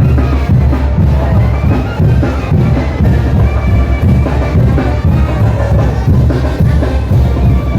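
Live Mexican brass band (banda) playing a son de chinelo: wind instruments carry the melody over a steady, loud drum beat.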